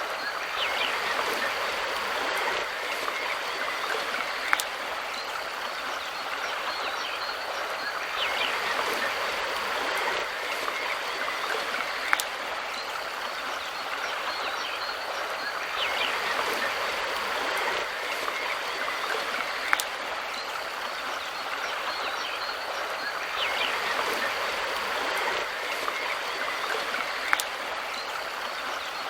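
River water rushing and splashing over rocks, a steady flowing noise that swells gently every seven to eight seconds, with a short sharp click at about the same spacing.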